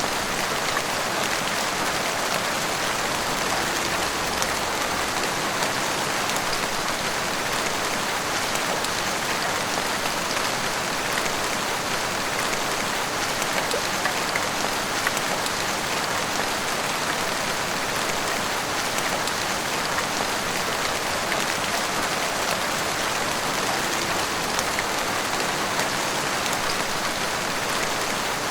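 Heavy rain pouring down steadily, a dense even hiss with scattered drops striking hard surfaces.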